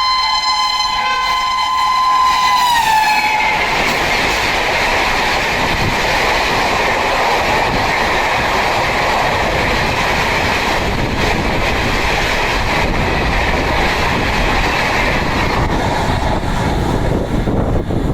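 Triple-tone horn of a WAP7 electric locomotive sounding as it passes at speed; its chord drops in pitch about three seconds in and then stops. The express's coaches follow, passing at about 135 km/h with a steady rush and rail clatter that eases near the end.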